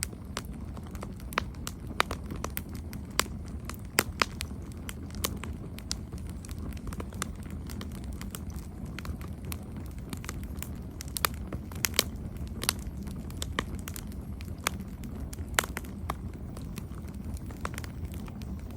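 Campfire burning with irregular sharp pops and crackles over a steady low rumble of the flames.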